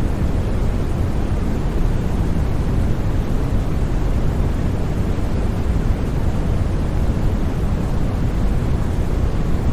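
Steady white noise for sleep: an even, unbroken rushing sound, weighted toward the low end rather than a bright hiss.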